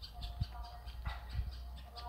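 Birds chirping and calling in short repeated notes, over a steady low rumble with a couple of dull thumps.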